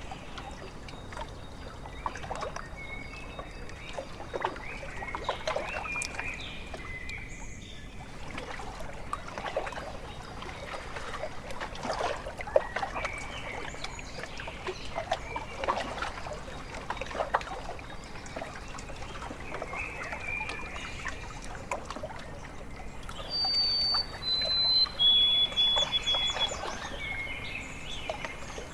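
Small waves lapping and dribbling at a lakeshore, with birds calling in short whistled notes. Late on, a bird sings a louder run of clear whistles, each note lower than the last.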